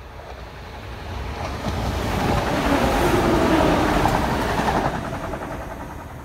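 ScotRail multiple-unit passenger train passing close by on plain line: the rumble of its wheels on the rails swells as it approaches, is loudest midway, then fades as it runs away.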